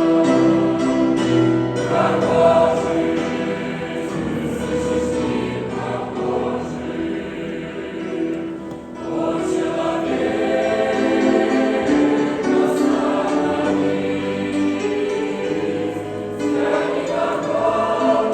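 A choir singing a song in held, sustained chords.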